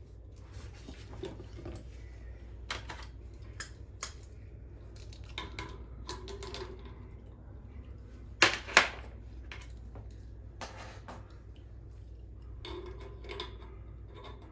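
Scattered metallic clinks and clicks of hand-worked metal parts, with two sharp, loud clinks close together about eight and a half seconds in, over a steady low hum.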